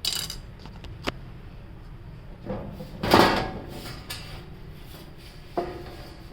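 The cover of a 10 kVA UPS being taken off after its screws are out: a knock at the start, a sharp click about a second in, a loud scraping slide about three seconds in, and another knock near the end.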